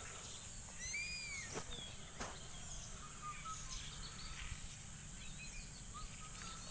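Rural outdoor ambience: a steady high-pitched insect drone with scattered bird chirps, a few arching calls about a second in. Two sharp clicks follow shortly after.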